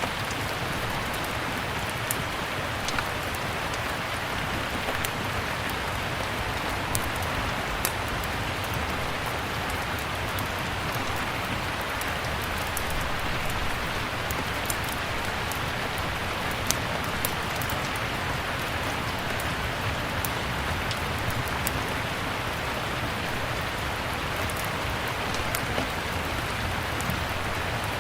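Steady rain with scattered sharp clicks and pops, the crackle of a wood fire in a fireplace.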